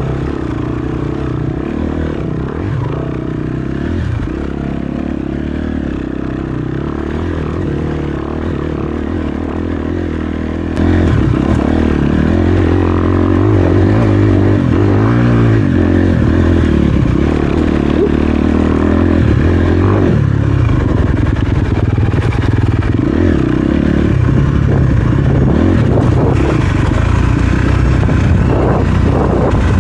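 Dirt bike engine running and revving over a rocky trail, with rattling and scraping from the bike; it gets louder about a third of the way through.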